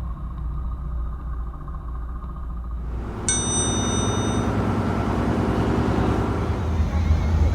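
A single bright bell-like ding about three seconds in, ringing for about a second over a steady background hiss, after a low rumble.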